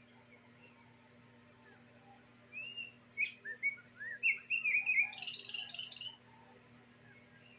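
A bird singing a quick series of short whistled notes about two and a half seconds in, running into a denser, higher jumble of notes that stops after about three and a half seconds.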